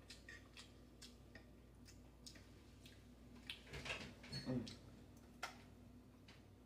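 Quiet mouth sounds of eating scrambled eggs: scattered soft clicks and smacks while chewing. A brief cluster of louder mouth noises comes about four seconds in.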